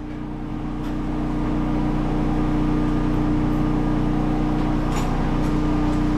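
Steady hum of a running motor or engine with a constant pitch, swelling over the first two seconds and then holding level.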